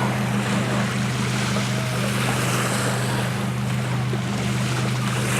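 Lake Michigan waves washing on the beach, with wind on the microphone, over a steady low hum.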